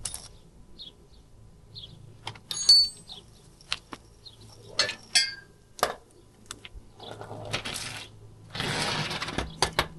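Metal tools and car parts being handled: scattered clinks and knocks, with two bright ringing metallic strikes, and a rasping noise lasting about a second near the end.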